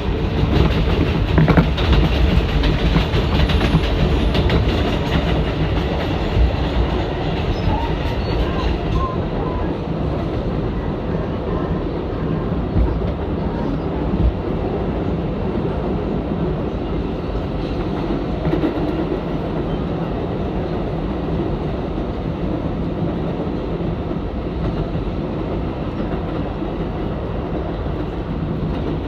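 R188 subway car running at speed, heard from inside: a steady rumble of wheels on rail with some rhythmic clatter. About nine seconds in it turns a little quieter and duller.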